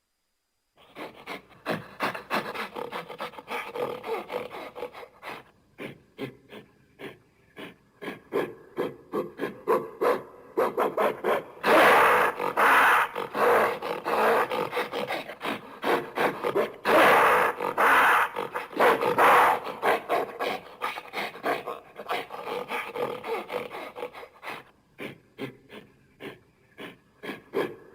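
Gorilla vocalizing: a long run of rough, irregular grunts and growls, loudest and harshest through a stretch in the middle.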